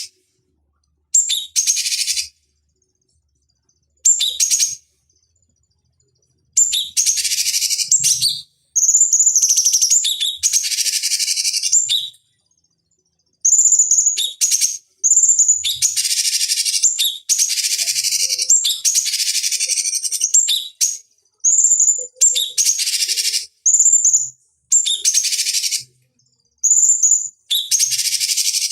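Cucak cungkok birdsong: a string of short, high, chattering phrases with clear whistled notes, each cut off abruptly and separated by gaps of silence, the phrases coming closer together after the first few seconds.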